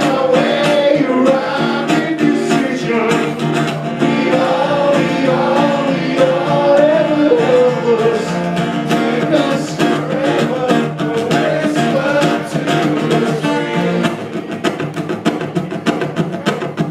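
Acoustic guitar strummed live, with a voice carrying a wavering melody over it.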